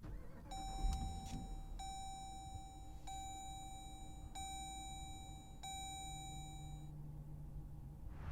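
A 2020 Dodge Durango R/T's electronic warning chime in the cabin, ringing five times in a row at about one chime every 1.3 seconds, just before the engine is started. A low steady hum comes in about six seconds in.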